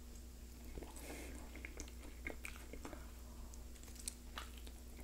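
Faint crunching of a person biting and chewing a tortilla chip topped with salsa, heard as scattered short crisp clicks.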